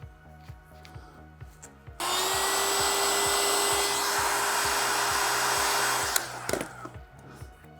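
A small electric power tool runs steadily at full speed for about four seconds, starting abruptly about two seconds in and switching off with a click. Background music with a steady beat plays throughout.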